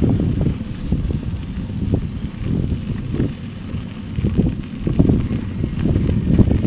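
Mountain bike riding over a rough dirt trail: an uneven rumble and rattle from the tyres and frame, with wind buffeting the microphone.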